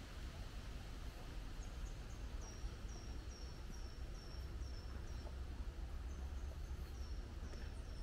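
A small songbird repeating short, high, slightly falling notes, about two to three a second, in two runs with a short break between them. A steady low rumble runs underneath.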